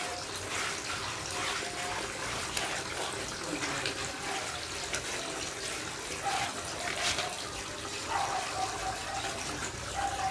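Water running from a tap and splashing during a dog's bath, with a few brief sharp splashes.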